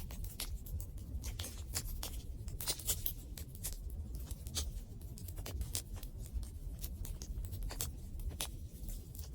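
Wood campfire crackling: irregular sharp pops and snaps several times a second over a low, steady rumble of the burning fire.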